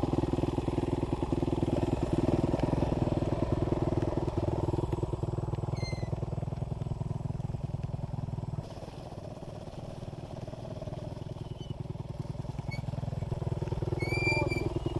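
Dirt bike engine running steadily at low revs. It drops in level about nine seconds in and comes back up near the end.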